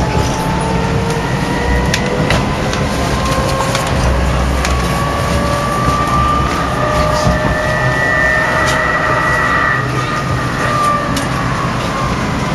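Oslo streetcar running, heard from inside the car: a steady rumble with whining tones that slowly rise and fall in pitch, and a few sharp clicks.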